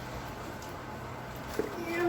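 A low steady room hum, then near the end a high voice starts a held, sung note with a short drop in pitch at its start.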